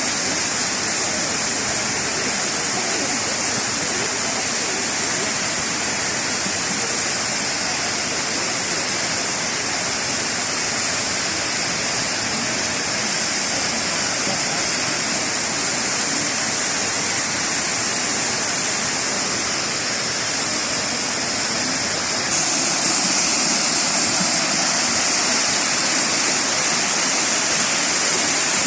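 Steady rushing of a large waterfall, the water falling continuously; it gets a little louder and brighter about 22 seconds in.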